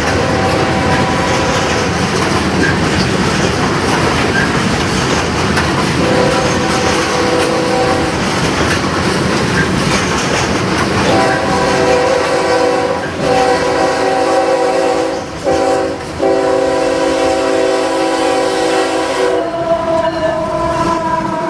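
A passing train's steady rumble and rail clatter, while a locomotive air horn sounds a chord of several notes, faint at first, then long and loud from about halfway in, with a few short breaks. Its chord changes near the end.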